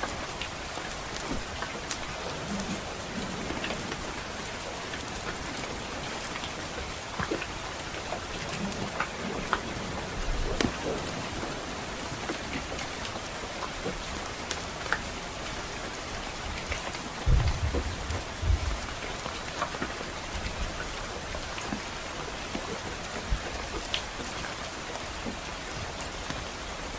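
Steady rain falling, with scattered sharp ticks throughout. A low rumble of distant thunder comes about 17 seconds in and is the loudest sound.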